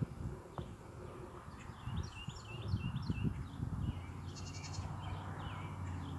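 Small birds chirping a run of short, quick, repeated high notes, with a brief rapid trill in the middle. A low steady rumble comes up in the second half.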